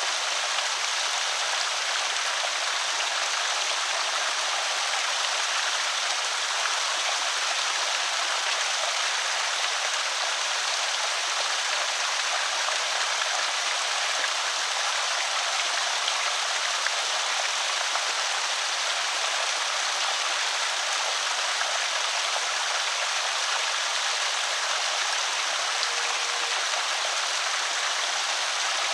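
Water pouring steadily over a small creek spillway, a constant splashing rush with no breaks.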